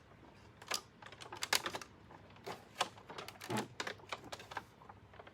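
Scattered, irregular clicks and knocks of vacuum cleaner parts being handled and pushed together while trying to fit a piece, with one duller knock about three and a half seconds in.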